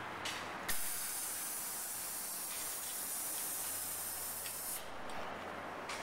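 Steady hiss of compressed air, like a spray gun or air line, starting suddenly and cutting off after about four seconds.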